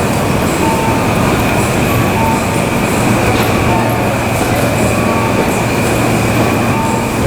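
Electric commuter train running on the line: a steady rumble of wheels on rail with a thin, steady high squeal over it.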